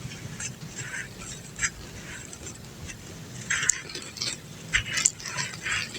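Dry lumps of brown dirt crumbling with irregular crunches, a few sharper cracks among them.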